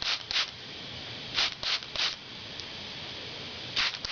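Hand trigger sprayer squirting soapy water onto a plugged tyre puncture to check for an air leak: several short hissing squirts in quick groups, a pair at the start, three in a row about a second and a half in, and another near the end.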